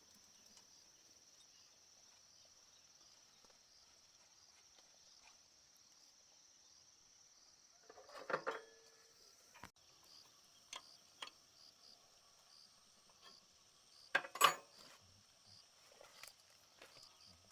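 Steady high-pitched chirring of insects such as crickets, with two brief clatters of handled objects, the louder one near the end, and a few light clicks.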